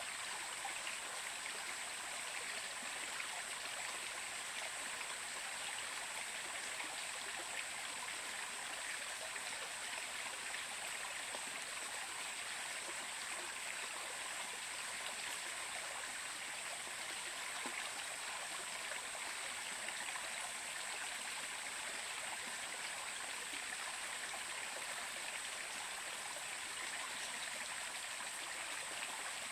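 Stream water flowing, a steady even rush with no breaks or changes.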